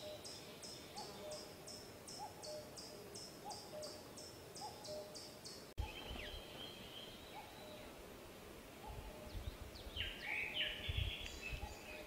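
Wild birds calling in woodland: a fast, even series of high notes, about three a second, over a low short note repeated about once a second, both stopping suddenly about halfway through. Brief louder bird calls follow near the end, over low rumbling.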